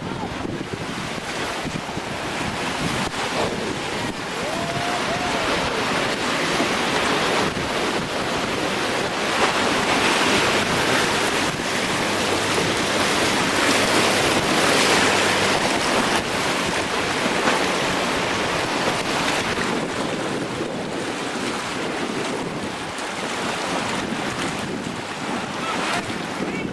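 Whitewater of Colorado River rapids rushing around a raft, with wind buffeting the microphone; the water noise swells to its loudest around the middle.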